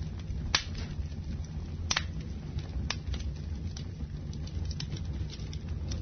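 Wood fire in a fireplace crackling over a low steady rumble, with sharp pops about half a second, two seconds and three seconds in, and lighter crackles between them.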